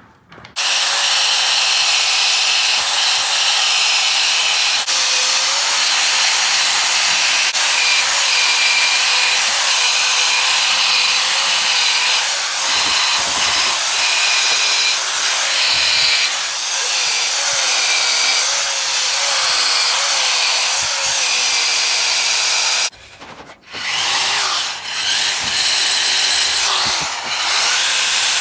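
Handheld rotary stripping tool (Eastwood Contour SCT) running under load, its abrasive drum scouring rust off an antique anvil, with a steady wavering whine. It cuts out briefly near the end, then starts again.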